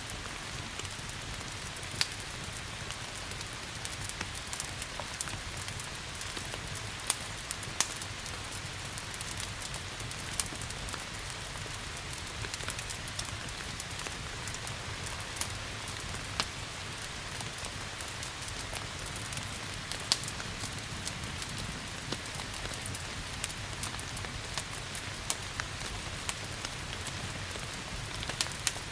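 Steady hiss of rain with a wood fire crackling through it: scattered sharp pops, a handful of them loud, over a soft low rumble.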